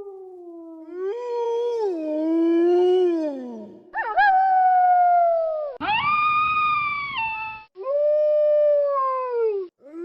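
Wolves howling: a run of separate long howls, each one to two seconds, several falling in pitch at the end, one after another with sudden breaks between them.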